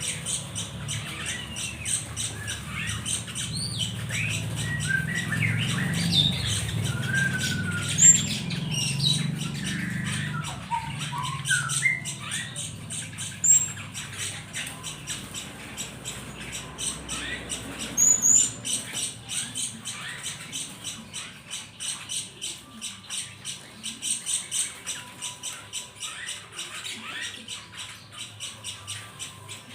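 Captured small songbirds chirping and squawking: many short calls that glide up and down, thickest in the first half, over a fast, steady ticking of short notes.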